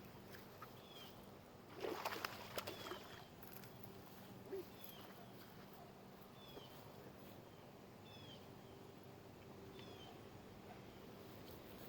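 A bird repeating a short, high, downward-slurred call about once a second. A brief burst of clicking and rustling noise comes about two seconds in.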